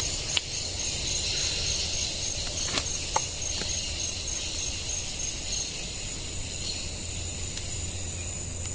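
Steady trilling of a rainforest insect chorus, several high tones at once. Three short sharp clicks or taps sound in the first few seconds.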